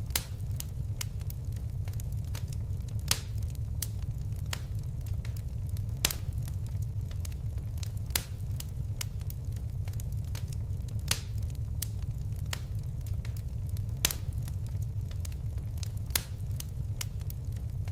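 Fire crackling: a steady low rumble of flames with many small snaps, and a louder sharp pop every few seconds.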